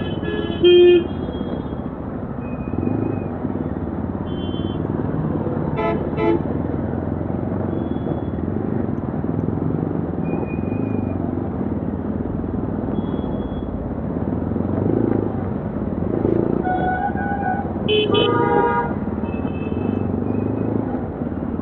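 Yezdi Adventure's single-cylinder engine and exhaust running steadily under way, with vehicle horns tooting in traffic: a short blast right at the start, another about six seconds in, and several more around seventeen to nineteen seconds in.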